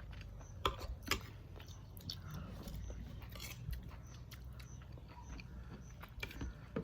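Quiet eating sounds at a meal: chewing, with a few sharp clicks of cutlery, the clearest two about a second in.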